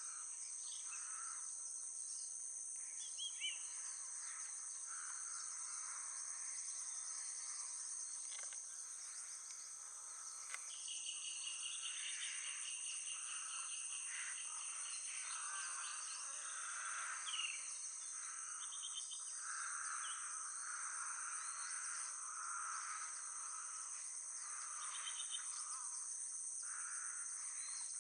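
A steady, high-pitched drone from an insect chorus, with birds chirping and trilling here and there over it.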